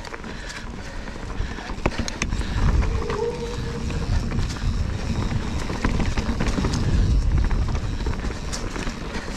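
Mountain bike riding over rocky singletrack: a continuous low rumble from wind and tyres on the camera microphone, with scattered sharp clicks and knocks from the bike rattling over rocks. The rumble grows stronger about two and a half seconds in.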